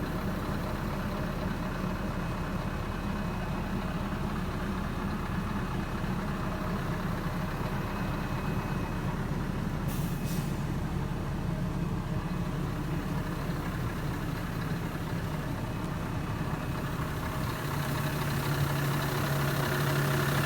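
Scania R 500 truck's diesel engine idling steadily, with a short sharp sound about halfway through. Near the end the low hum settles into a steadier, stronger drone and grows slightly louder.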